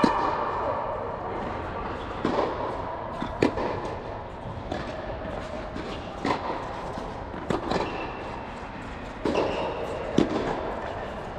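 Tennis balls being struck with rackets during a drill: a sharp pop of ball on strings every one to two seconds, with a few lighter hits in between.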